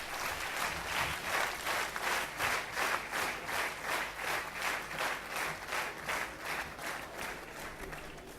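Audience applauding, the clapping falling into a fairly even beat and slowly dying away near the end.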